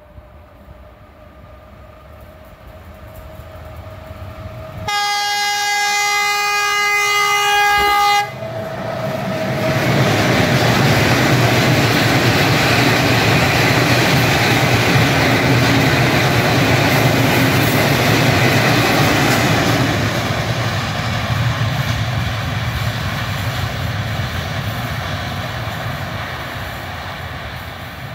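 A train approaching with a rising rumble, then sounding its horn in one steady blast of about three seconds. It passes close by with loud wheel and rail noise that slowly fades before the sound cuts off.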